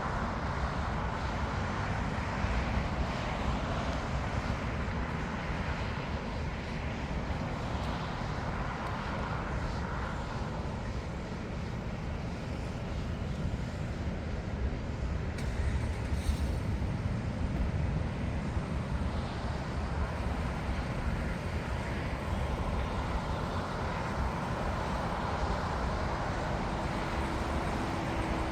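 Steady airport noise dominated by a low rumble, typical of jet aircraft engines at a distance, with a faint steady whine appearing near the end.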